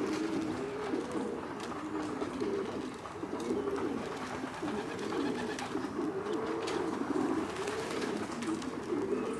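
Several pigeons cooing at once, a continuous run of overlapping low coos, with a few faint scattered taps.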